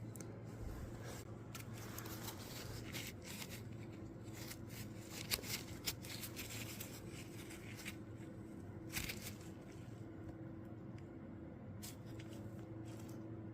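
Metal parts and hand tools being handled during an engine teardown: scattered light clicks, taps and scrapes, the sharpest a few just past the middle, over a steady low hum.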